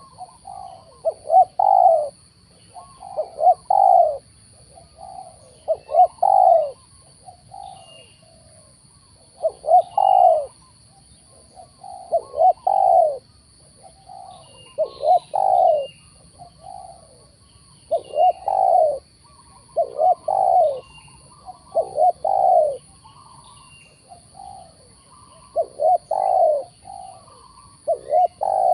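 Spotted doves cooing, a repeated coo phrase roughly every two seconds, with small birds chirping faintly and a steady high-pitched tone throughout.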